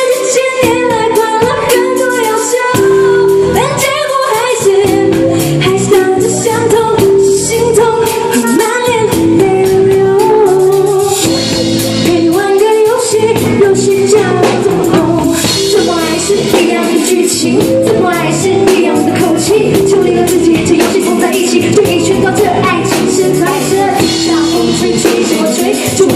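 A woman singing a pop song live with band accompaniment and a steady drum beat.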